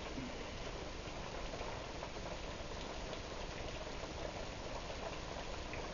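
Heavy rain falling steadily in a downpour: an even hiss of rain with scattered drop ticks.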